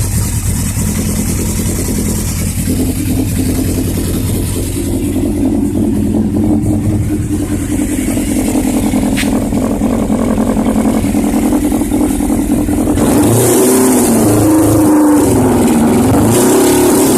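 1994 Yamaha YZF600 sport bike's inline-four engine idling steadily, then revved up and down several times near the end.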